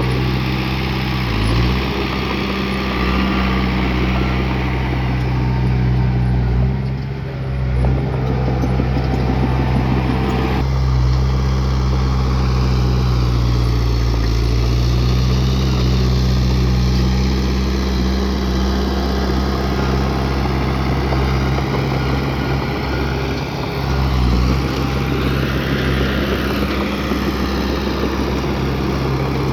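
Bulldozer's heavy diesel engine running steadily, its pitch sagging briefly a few times as it takes load.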